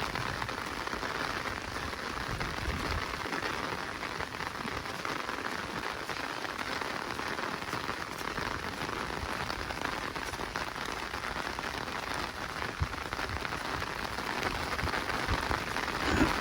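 Steady rain falling in a forest, an even, unbroken patter of drops.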